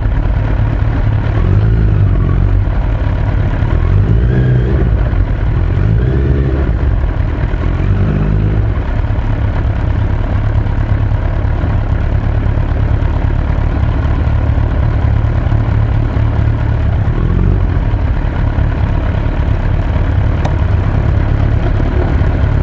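Suzuki Hayabusa GSX-1300R inline-four motorcycle engine running under way, its pitch rising and falling several times in the first nine seconds as it speeds up and slows, then holding steady.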